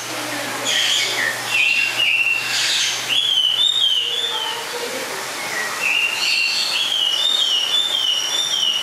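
A bird singing: phrases of short, clear whistled notes that rise and fall, in a run about a second in and another from about six seconds, over a steady background hiss.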